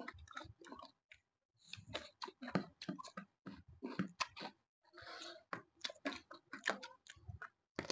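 Chewing and mouth smacking while eating: a fast, irregular run of wet clicks and small crunches, with a short pause a little over a second in.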